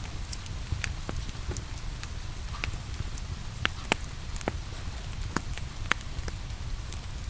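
Wood fire crackling in a fireplace, with sharp pops every half second or so, over the steady hiss and low rumble of falling rain.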